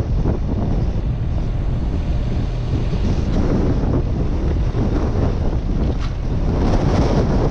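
Wind buffeting the microphone: a loud, ragged low rumble that surges and eases irregularly.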